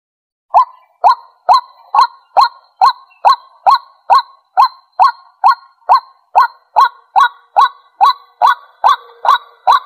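White-breasted waterhen calling: a long run of short, even, honking notes, a little over two a second. The run starts about half a second in, after a brief pause.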